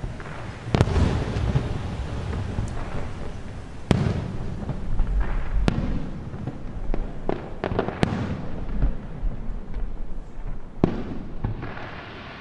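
Aerial fireworks shells bursting one after another, sharp bangs over a continuous rolling rumble of echo from the hills behind. The rumble dies down near the end.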